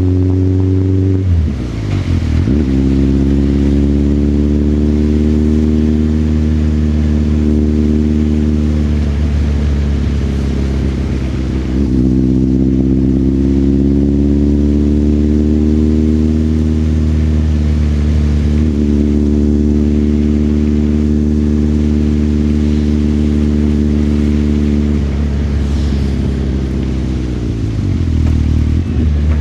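Motorcycle engine running as the bike rides along, its note slowly climbing and then dipping briefly and picking up again about four times: near the start, around the middle, later on, and near the end.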